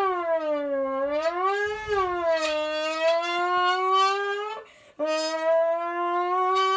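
Air blown through a flattened, creased aluminium drink can, its walls buzzing like a reed to make a horn-like tone imitating a Lamborghini engine. The pitch swoops up and down, stops briefly a little past the middle, then starts again.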